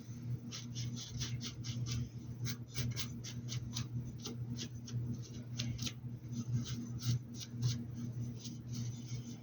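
Paintbrush scratching and dabbing in quick, irregular short strokes while paint goes onto a hat, over a steady low hum.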